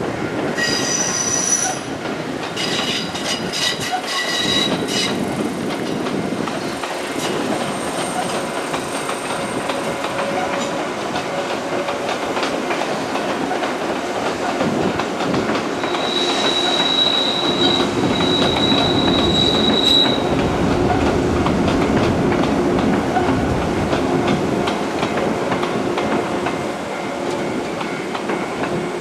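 Electric train running past, rumbling steadily and swelling louder in the middle. High-pitched wheel squeal comes in twice near the start and again as a long squeal for several seconds in the second half.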